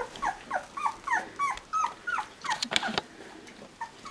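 Two-week-old Bernese Mountain Dog puppies whimpering in a quick series of short, high, falling squeaks, about three a second, which thin out to a few fainter squeaks after a sharp click about three seconds in.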